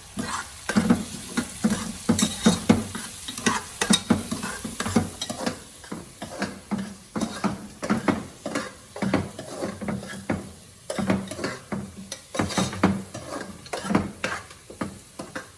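A utensil stirring and scraping sliced onions, turmeric and fresh curry leaves around a pan of hot oil, in quick irregular strokes over a steady sizzle of frying.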